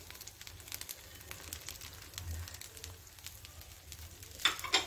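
Rava uttapam batter cooking in a pan, sizzling faintly with scattered small crackles. There is a brief louder hiss near the end.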